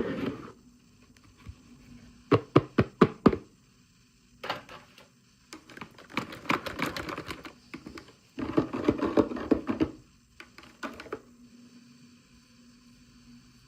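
Small hard objects being handled: runs of sharp clicks and taps with some rustling, typical of plastic miniature toys and their packaging being opened and fiddled with. A quick string of about six clicks comes a few seconds in, then two longer, denser clusters, and a few last taps.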